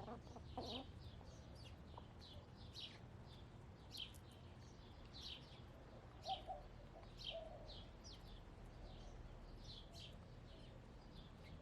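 Wild songbirds chirping faintly in short, quick, falling notes, repeating every second or so. A few soft, low hen clucks come in near the start and again past the middle.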